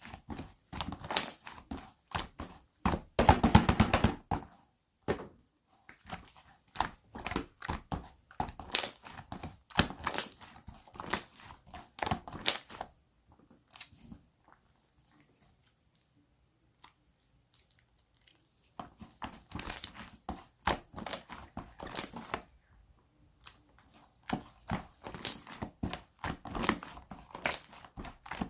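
Clay slime mixed with iClay and angel clay being squished, stretched and pulled apart by hand, making runs of sticky crackling pops and tearing sounds. The handling pauses for several seconds midway, then resumes.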